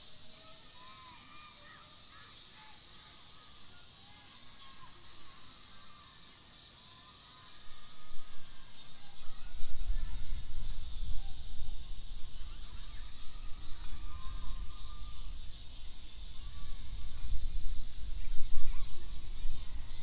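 Outdoor park ambience: a steady high-pitched insect drone with scattered bird calls. From about eight seconds in, a loud, uneven low rumble joins.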